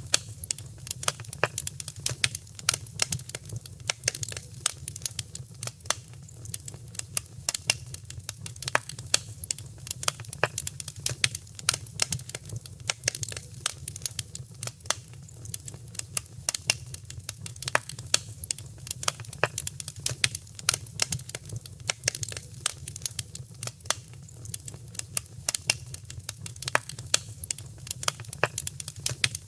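Wood fire crackling: many sharp irregular pops and snaps over a steady low rumble of burning.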